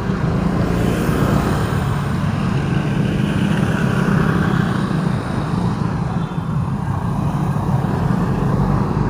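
A car being driven through city traffic: a steady low engine and road hum with tyre and traffic noise, heard from inside the car. A passing swell of louder, hissier traffic noise rises in the first few seconds and fades by the middle.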